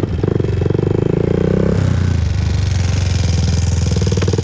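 Honda TRX400EX ATV's single-cylinder four-stroke engine running under way with a steady, rapid firing beat. It eases off a little under two seconds in and pulls harder again near the end.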